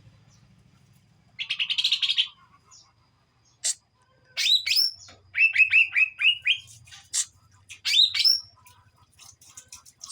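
Greater green leafbird (cucak ijo) singing: a rapid buzzy chatter, then loud up-slurred whistled notes and a quick run of five repeated notes, ending in softer chatter. It is a bird learning its full, open song (ngeplong).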